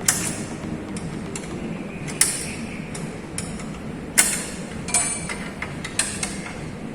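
Hand tools working on a metal bracket: sharp metallic clicks and knocks at irregular intervals, a few ringing briefly, as bolts are worked on and tightened.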